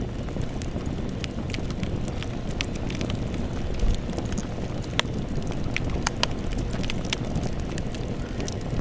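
Campfire burning: a steady low rumble with frequent sharp crackles and pops of the burning wood, a louder pop about four seconds in.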